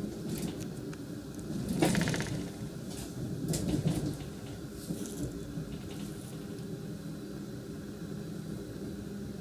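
Cabin sound of an NSB Class 74 electric multiple unit running on the line: a steady rumble and hum from the wheels and running gear. Clacks of the wheels over rail joints and switches come about two seconds in and again around three and a half to four seconds in.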